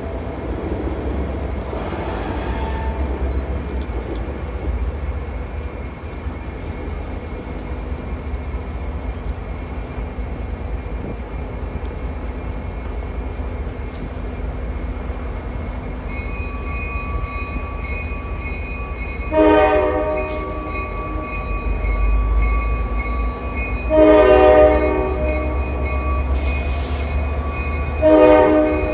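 Diesel switcher locomotive running with a steady low rumble, a bell ringing from a little past halfway, and three horn blasts in the second half, the middle one longest and the last cut off at the end.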